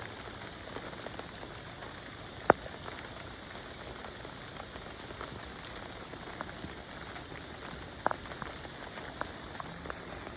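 Steady rain falling on surfaces, with scattered individual drops and two sharper clicks, one about two and a half seconds in and one near eight seconds.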